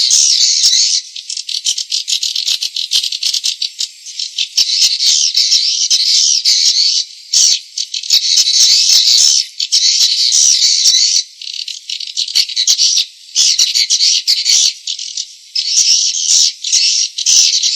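Swiftlet lure call track: dense, high-pitched swiftlet twittering and rapid clicking, loud and continuous in stretches with brief gaps. It is played to attract swiftlets to a nesting house.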